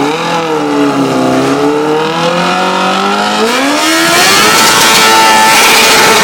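Motorcycle engine revving hard: the pitch wavers and dips, then climbs steeply about four seconds in and holds at a high rev.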